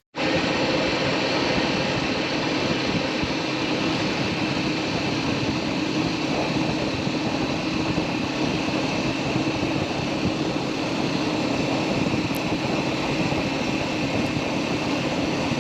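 Steady running noise of a motorcycle ride at constant speed: engine hum mixed with wind and road noise, unchanging throughout.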